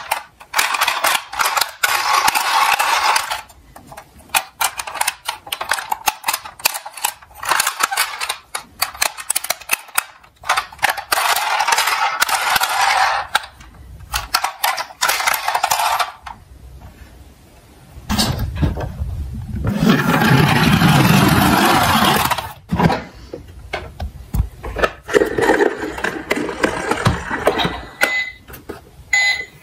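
Small toy cars rolling and clattering down a slope, with many sharp clicks and stretches of rolling rattle. A deeper rolling rumble comes about two-thirds of the way through.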